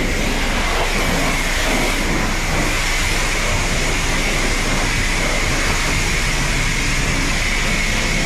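High-pressure wand of a self-serve car wash spraying rinse water onto a car: a steady hiss of spray with a faint high tone running through it.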